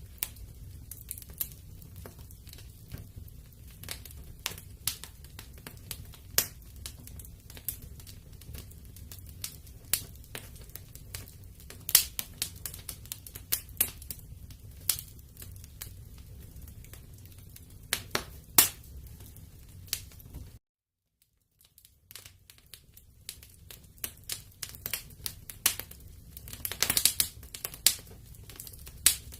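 Wood fire crackling and popping in a fireplace: irregular sharp snaps over a low steady rumble, with a denser flurry of pops near the end. The sound cuts out completely for about a second a little over two-thirds through.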